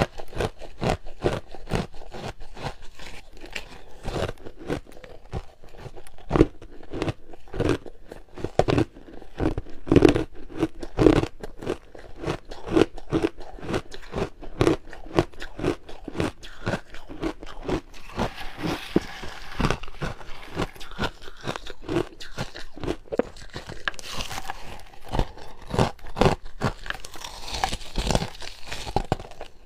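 Close-up crunching of coloured ice being bitten and chewed, a dense run of irregular sharp cracks with a few harder bites standing out.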